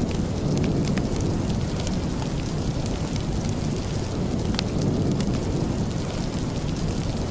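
Steady rain: an even wash of noise, heavy and rumbling in the low end, with scattered sharp ticks of drops or crackles over it.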